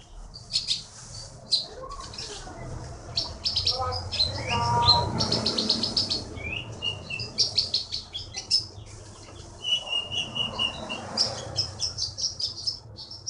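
A konin songbird singing steadily in full voice: rapid runs of short high chirps, with a brief trilled phrase about ten seconds in.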